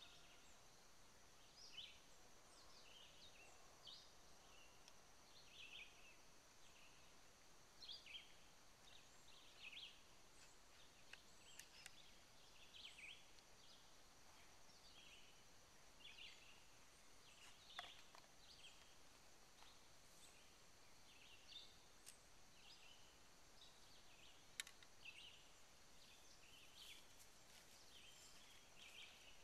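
Near silence: faint, short bird chirps scattered throughout over a steady high-pitched hiss, with a few light clicks.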